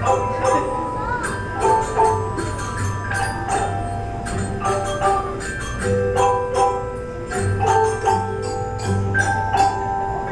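An elementary school instrumental ensemble playing a tune of many quickly struck notes on mallet percussion, xylophones and glockenspiels, over a low bass note that comes and goes.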